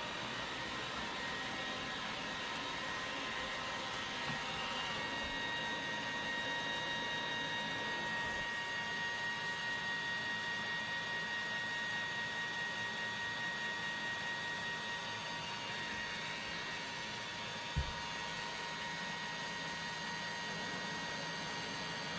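iRobot Roomba Combo j7+ robot vacuum running steadily, a motor whine over a hiss of suction and brushes, with one brief knock about eighteen seconds in.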